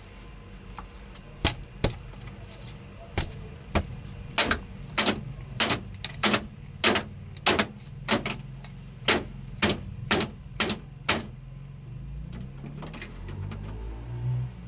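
A series of sharp clicks or knocks, about seventeen unevenly spaced over some ten seconds, over a low steady hum.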